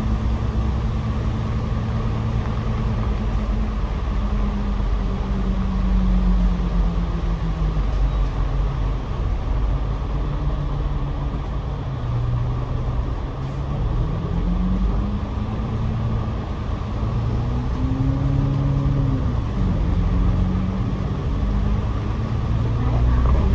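Double-decker bus engine and road noise heard from the upper deck. The engine note drops about a quarter of the way in, then climbs again past the middle as the bus picks up speed, over a steady rumble of tyres and road.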